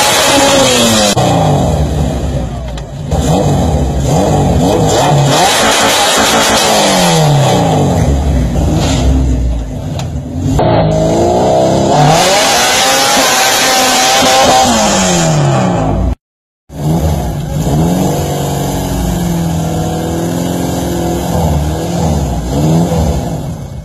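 Naturally aspirated Honda B20 VTEC four-cylinder in a Civic EF hatchback, very loud, revving hard on a pull. Its pitch climbs and drops again several times with the gear changes. After an abrupt cut about two-thirds of the way through, engine revving goes on with a wavering pitch.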